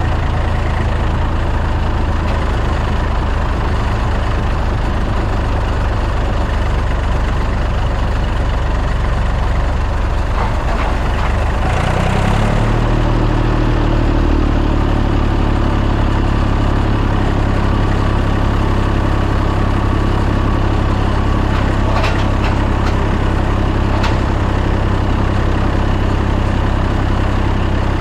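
Tractor engine running steadily. About twelve seconds in its speed rises quickly to a higher, steady pitch, with a couple of faint clicks later.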